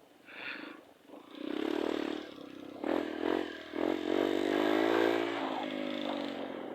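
Trail motorcycle engine revving in short surges, then held at high revs for a second or two with its pitch rising.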